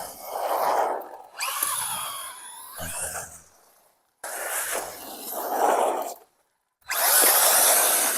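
FTX DR8 radio-controlled car's electric motor whining up and down in four short runs, with its tyres throwing up leaves and dirt.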